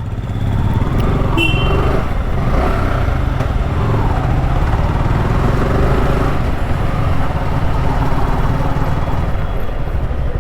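Motorcycle engine running steadily under way with road noise. It gets louder in the first second, then holds level.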